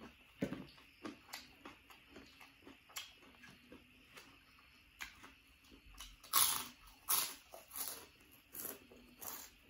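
Close-miked chewing of raw vegetables: crisp crunching bites with wet mouth sounds. The crunches grow louder in the second half, coming roughly one every three-quarters of a second.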